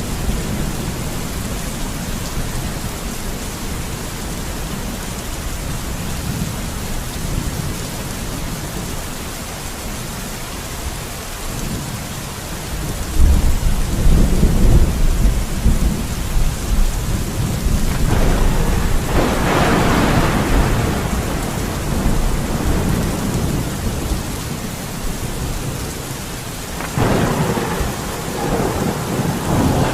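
Steady heavy rain with rolling thunder: a deep rumble swells about halfway through, then a sharper crack rolls out a few seconds later, and another peal begins near the end.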